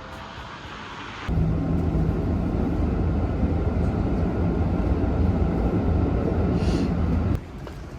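A steady low mechanical rumble with a held low hum, like a vehicle engine, cutting in about a second in and cutting out near the end.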